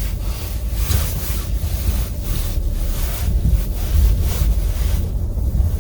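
Car driving on a snow-covered road: a steady low rumble with a rushing, uneven noise over it.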